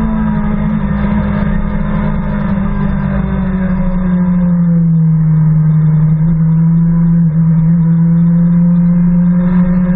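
BMW S1000RR inline-four engine running hard on track, its steady note falling a little in pitch about halfway as the bike slows, then holding. Wind rush on the bike-mounted microphone runs underneath.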